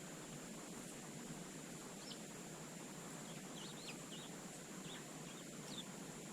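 Small garden songbirds giving short, thin high chirps, a few at a time, over a steady hiss.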